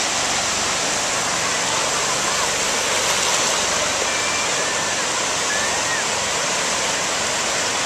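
Ocean surf washing steadily on a sandy beach, with faint distant voices.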